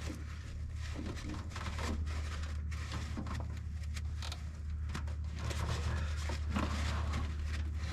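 Rags rubbing and rustling as oil is wiped off an engine, with irregular handling scrapes over a steady low hum.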